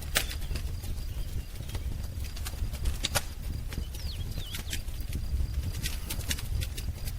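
Wood fire crackling, with irregular sharp pops over a low rumble. A couple of brief falling bird calls come about four seconds in.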